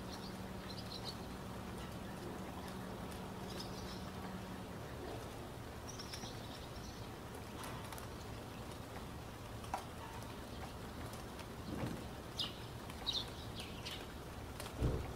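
Steady hiss of background noise with faint bird chirps every few seconds. A low hum stops about a third of the way in, and a few soft knocks come later, the loudest just before the end.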